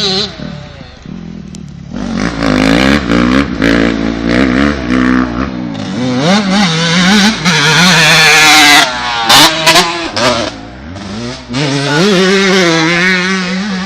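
Motocross bike engines revving, the pitch rising and falling again and again as the bikes run the track. It is quieter for the first couple of seconds and loudest about two-thirds of the way through.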